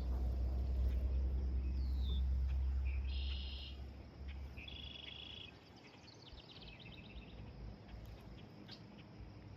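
Birds calling several times, short high buzzy phrases and a quick trill. Under them in the first half is a low rumble that fades out about five seconds in.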